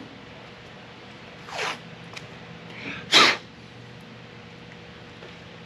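Masking tape being pulled off the roll in two short rips, the second louder and sharper.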